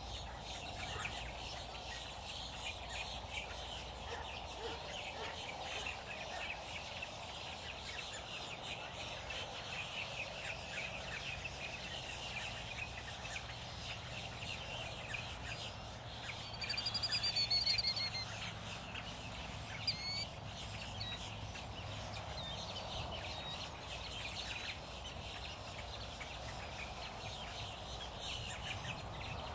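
Wild birds calling: many faint chirps throughout, and a louder quick run of high, repeated calls lasting about a second and a half a little past the middle.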